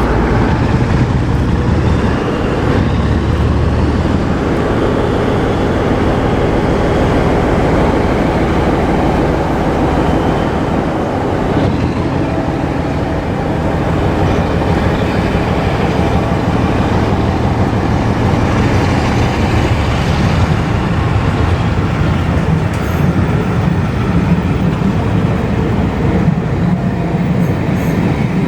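Diesel train running past at close range, a loud steady rumble with a faint clatter of wheels over the rails.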